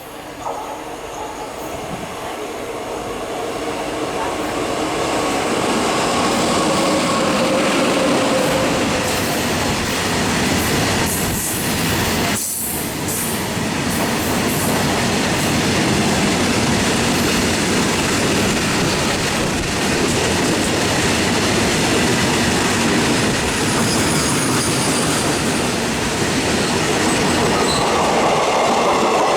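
A high-speed freight train hauled by a WAG 9 electric locomotive passing at speed, its wheels rumbling and clattering over the rails. It grows louder over the first several seconds, then stays loud and steady.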